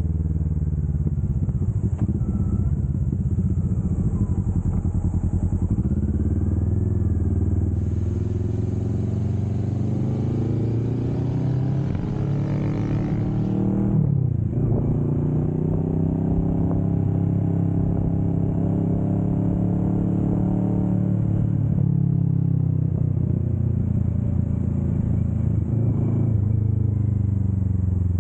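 2025 Kawasaki Vulcan S 650's parallel-twin engine running under load. Its pitch climbs, drops sharply at a gear change about fourteen seconds in, then climbs again and eases off, over steady wind and road noise.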